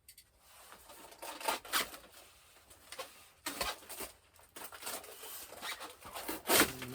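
Cardboard and plastic packaging rustling and scraping as an RC plane box is unpacked by hand, in irregular bursts with the loudest one near the end.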